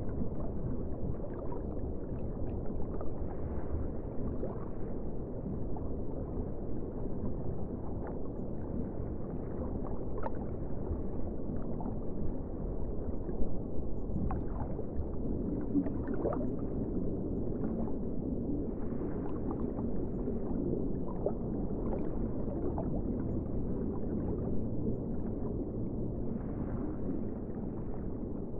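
Ocean water ambience: a steady, muffled wash, dotted with small gurgles and clicks.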